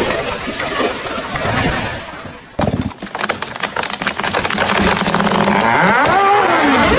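A huge tree coming down: a sudden burst of wood cracking and splintering about two and a half seconds in, going on as a dense run of cracks and crashes. Near the end a pitched sound rises and then falls.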